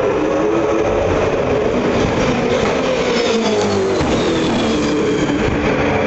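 V8 Supercar race car V8 engine running hard at speed. Its pitch drops slowly through the middle and climbs again near the end as the car slows and accelerates.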